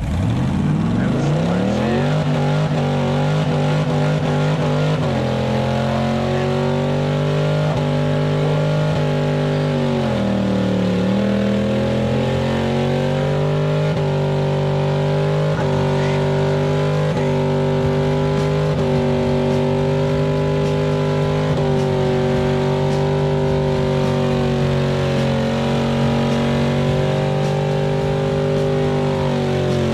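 LS V8 engine in an OBS Chevy pickup revving up hard and then held at high revs through a burnout. The pitch dips briefly about ten seconds in and climbs back.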